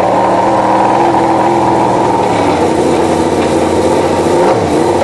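Motorcycle engine idling steadily, with a brief dip and return in pitch near the end.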